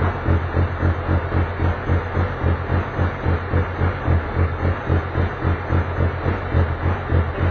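Touring race car engine running at a steady idle, a low hum that throbs evenly about three to four times a second.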